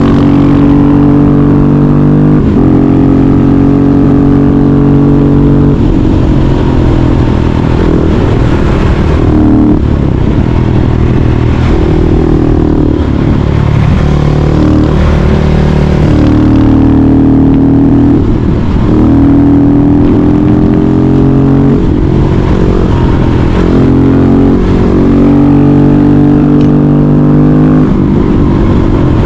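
Husqvarna 701 Supermoto's single-cylinder engine breathing through a Yoshimura aftermarket exhaust, running loud and held at steady revs for stretches, with the pitch shifting several times as the throttle changes.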